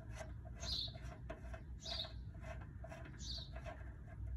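A bird chirping: a short, high note falling in pitch, repeated three times a little over a second apart.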